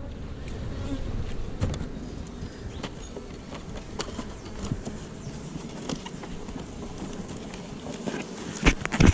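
Honeybees buzzing steadily around an open hive, with a few light knocks, the loudest near the end.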